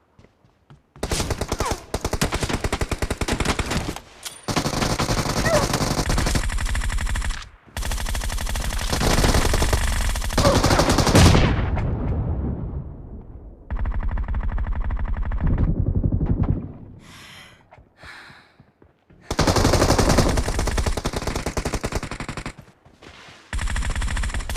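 Rapid automatic gunfire in long sustained bursts of a few seconds each, broken by short pauses. There are about six bursts in all, the third fading out after a long stretch.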